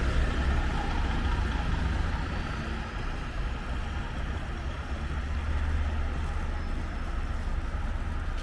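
City street traffic: a steady low rumble of passing vehicles that eases a little a few seconds in, then swells again as another vehicle goes by.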